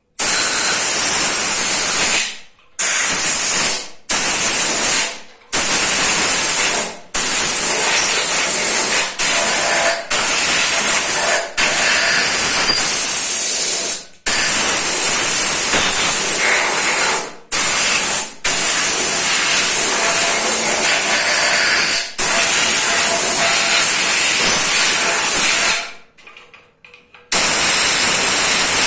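Compressed-air blow gun fed by a compressor, blowing dust and debris out of the holes and passages of engine parts before assembly. It comes as a series of loud hissing blasts, each lasting from under a second to several seconds, with short breaks between them and a longer pause near the end.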